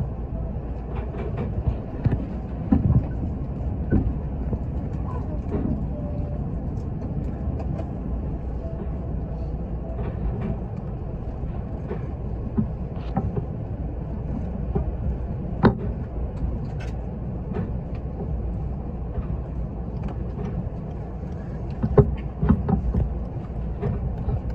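A train running with a steady low rumble, and scattered knocks and clicks, one near the middle and a cluster near the end.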